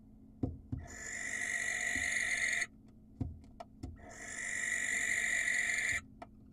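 Barn owl giving two long, harsh, hissing screeches about two seconds apart, each lasting roughly two seconds, with a few soft knocks in the pauses between them.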